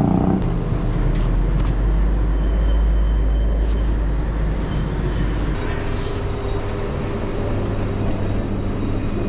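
Motorcycle engine running amid city road traffic. Its low drone steps up in pitch about five and a half seconds in.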